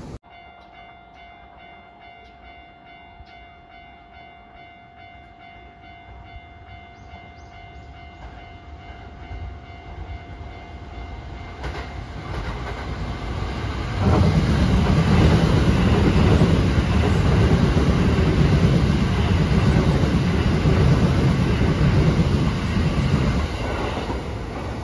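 Electric commuter train running through a station without stopping, with rumble and wheel clatter. The sound builds from quiet, is loud for several seconds as the train passes close, and eases near the end. In the quieter first part a few steady tones sound over a low hum.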